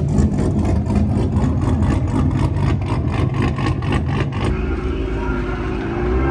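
A car engine running with a pulsing exhaust note, about four pulses a second. About four and a half seconds in it gives way to a smoother engine note that rises in pitch near the end.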